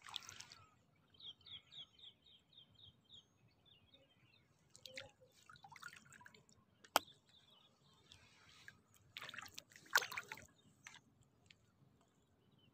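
Quiet reedbed ambience: a bird gives a quick run of about nine short high chirps, then faint water drips and small splashes. A single sharp click comes about seven seconds in, and a short noisy rustle-splash comes near ten seconds.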